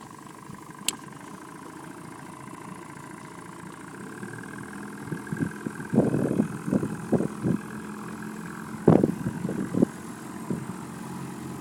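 Small boat's outboard motor running steadily under way. A sharp click about a second in, then irregular heavy thumps from about six seconds on, the loudest near nine seconds.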